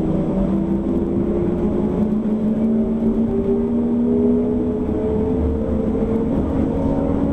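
Z 6400 electric commuter train running, heard from on board: a steady rumble of wheels on rails under a set of motor tones that rise slowly in pitch as the train gathers speed.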